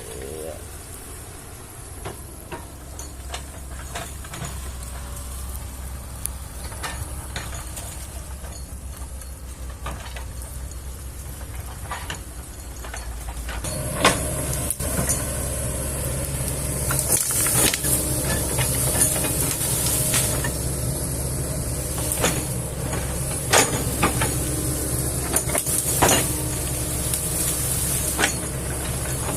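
Kobelco hydraulic excavator running and working, its diesel engine a steady low drone that grows louder and fuller about halfway through, with scattered sharp knocks and cracks.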